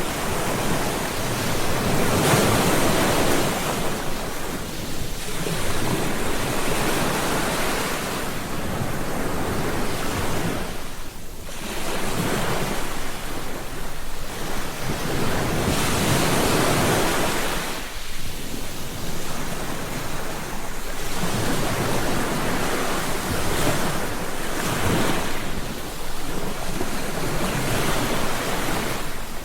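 Ocean surf: waves breaking and washing up the beach, swelling and fading every few seconds, with brief lulls between sets.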